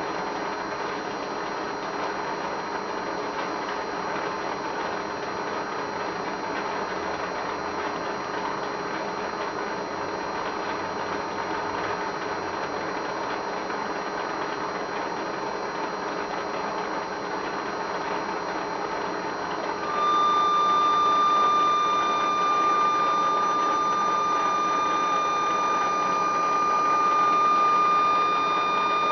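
A steady hiss, then about two-thirds of the way through a thermoacoustic Stirling engine suddenly starts to sing: a loud, steady high tone with overtones that holds to the end. The tone means the heated engine has reached the point where it sustains its own acoustic oscillation.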